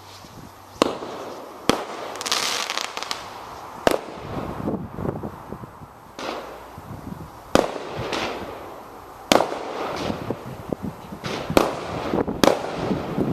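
Fireworks exploding in the sky: about seven sharp bangs at uneven gaps of one to four seconds, with crackling between the bursts.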